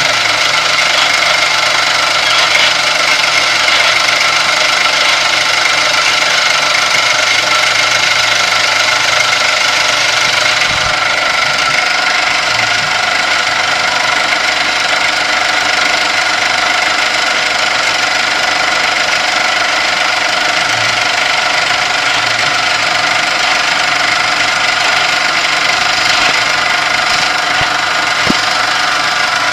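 Kami FKM 350 PL machine's Y-axis drive running with an abnormal noise: a loud, steady mechanical sound with several held tones over a rough, dense noise.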